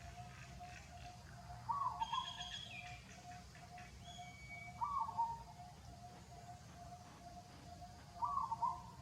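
Birds calling: a short falling call repeated about every three seconds over a steady, rapidly pulsing note, with a few higher chirps around two to three seconds in.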